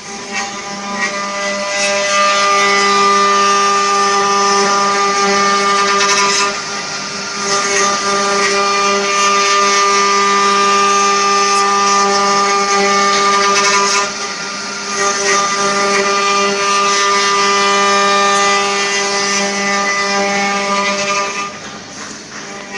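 Spindle motors of a multi-spindle 4-axis CNC wood router running with a steady whine, with a louder rushing noise of the bits cutting wood that eases off briefly about six, fourteen and twenty-one seconds in.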